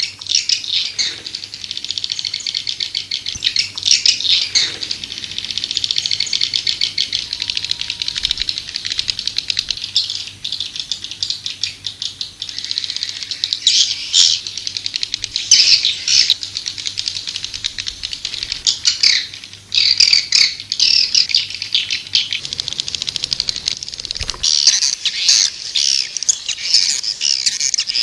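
Swiftlets twittering continuously, a dense run of rapid high chirps and trills: a swiftlet lure call.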